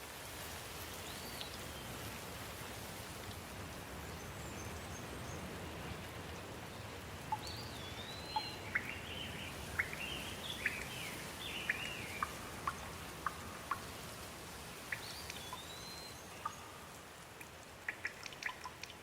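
Steady rain falling, with individual drops tapping close by in the middle and again near the end. A bird calls over it about three times with a short rising-and-falling whistle, the calls coming roughly every seven seconds.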